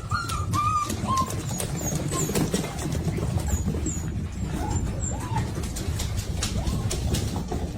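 Short bird-like chirps and small curved calls, some high and some lower, scattered over a steady low rumbling noise.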